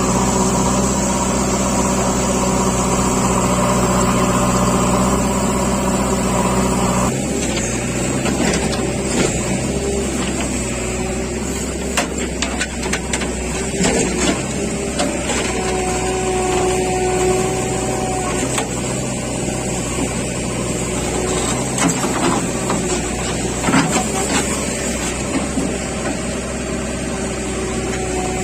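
Heavy machine's engine running steadily. Its note changes abruptly about seven seconds in, and scattered clicks and knocks follow.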